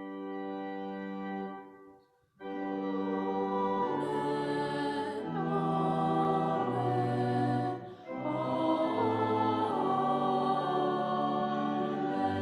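Organ playing held chords over a bass line that steps from note to note, with a short break about two seconds in.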